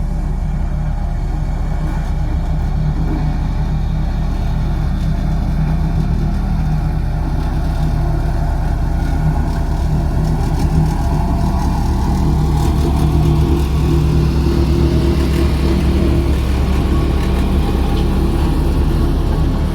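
Diesel engine of heavy road-construction equipment running steadily, picking up a little in load about halfway through.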